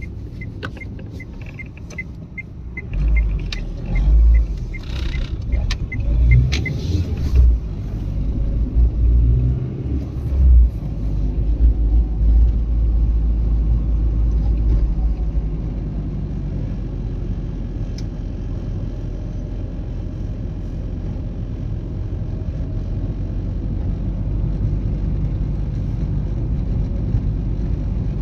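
Old Renault Twingo being driven, with a steady low engine and road rumble. There are irregular low thumps for several seconds early on, and a light, regular ticking that stops about six seconds in.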